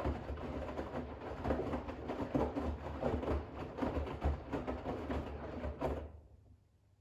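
Bosch WAX32GH1 front-loading washing machine drum turning a load of towels during a rinse, with water sloshing and wet laundry tumbling over a low motor hum. The drum stops about six seconds in for the pause between turns.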